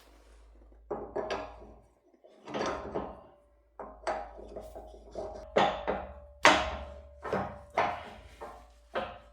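A series of sharp metal clanks and knocks, about a dozen irregularly spaced, from tools and parts being handled during workshop assembly. Through the second half a faint ringing tone carries on between the knocks, the loudest of which comes about six and a half seconds in.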